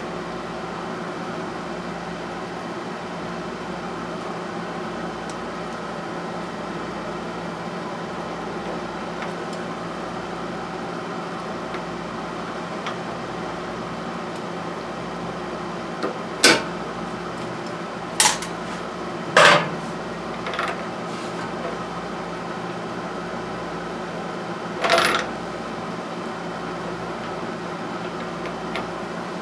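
Steady mechanical hum, like a shop fan, under a handful of sharp metallic clinks from small metal parts or hand tools being handled and set down: several in quick succession past the middle and one more a few seconds later.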